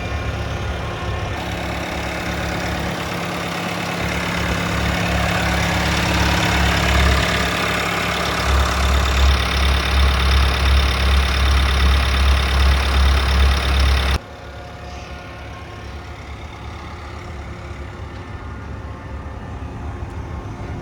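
Bobcat T66 compact track loader's diesel engine running, growing louder a few seconds in with a heavy low pulsing, then dropping suddenly to a quieter, steady run about two-thirds of the way through.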